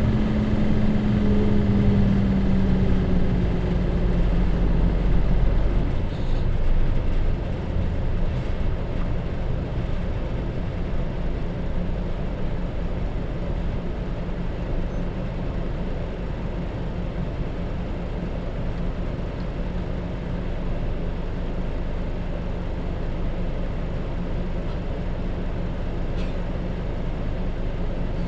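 Hino J07E diesel engine of a route bus, heard from inside the cabin. Its note falls over the first few seconds and the low rumble eases about six seconds in. After that the engine runs steadily under the tyre and road noise.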